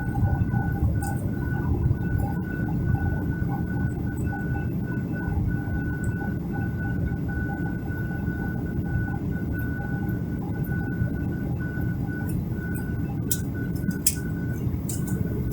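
Jet airliner cabin noise: a steady low rumble of the engines and airflow, with a high, slightly pulsing whine above it.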